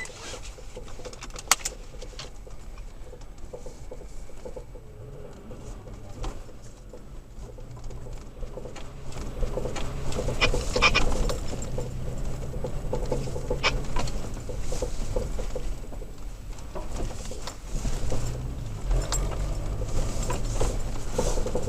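Cab of a third-generation Toyota Tacoma driving slowly over a rough dirt road. A low engine and road rumble grows louder about halfway through, with scattered clicks and knocks from the truck and its gear jolting over bumps.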